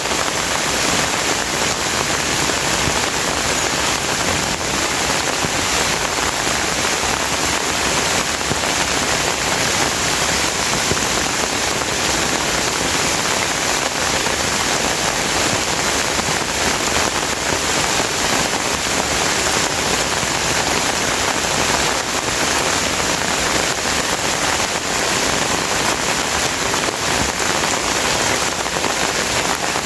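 Steady rain falling: an even, dense hiss of countless drops, holding the same level throughout.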